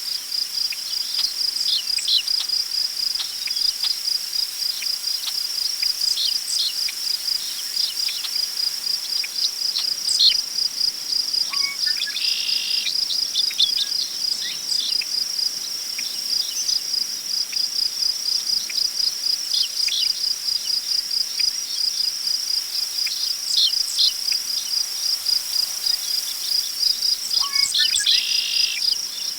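Crickets chirping in a steady, rapid pulsing trill, with scattered short bird chirps and two longer bird calls, one about midway and one near the end. Underneath is a faint rustle of wind in tall grass.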